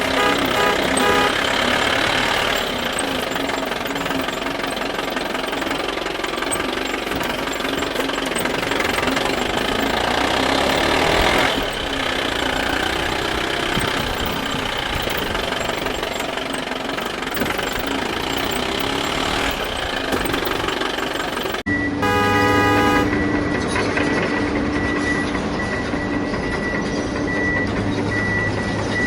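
Vehicle sounds: a dense, steady noise that cuts off suddenly about three quarters of the way through. A short horn toot follows, then a steady low hum with a high beep pulsing over it.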